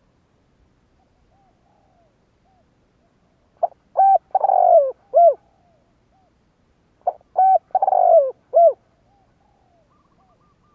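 Spotted dove cooing: two phrases about three seconds apart, beginning about three and a half seconds in. Each phrase is a short note followed by three coos, the middle one long and falling in pitch.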